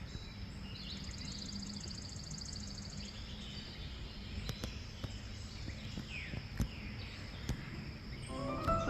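Quiet outdoor background of insects, with a rapid pulsing insect trill from about one to three seconds in and a faint bird chirp; piano music begins near the end.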